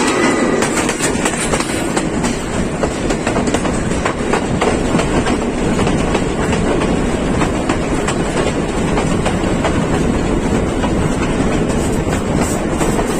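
Passenger train running along the line, its wheels clattering over the rail joints in a steady stream of clicks over a continuous rumble.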